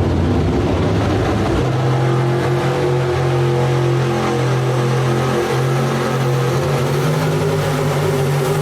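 A truck-pull competition engine running hard at high, steady revs, with a shift in its sound about two seconds in.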